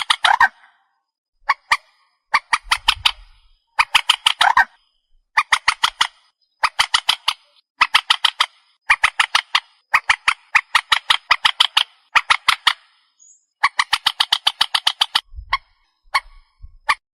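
Trích ré, a swamphen, giving repeated series of rapid, harsh squawking notes in bursts of about a second, some runs longer. This is a lure call recording used to draw the birds in when trapping at night.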